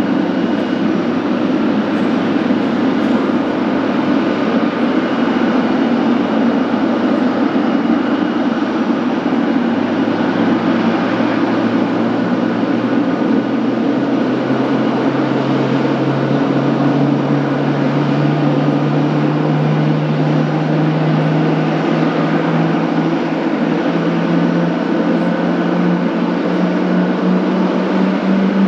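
Boeing 777F's GE90 turbofan engines running with a steady loud roar. A low tone rises slowly in pitch through the second half.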